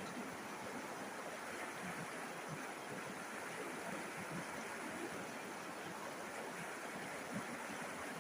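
River water flowing steadily, a continuous rushing and babbling.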